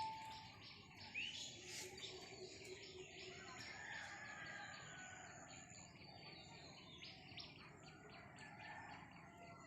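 Faint birdsong outdoors: many small birds chirping in short, repeated calls, with one louder upward-sweeping call about a second in.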